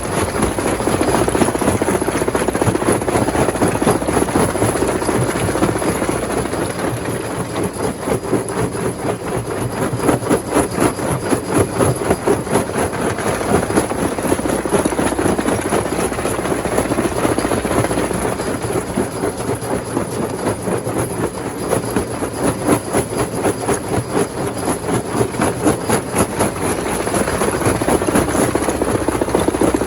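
Stone crusher machinery running, a steady mechanical din with a rapid, even pulsing and slow swells in loudness.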